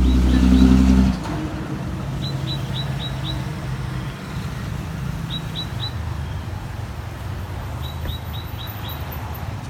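Motor scooter engine running, louder for the first second and then dropping to a steady lower hum. Short, high, falling bird chirps come in quick runs of two to four throughout.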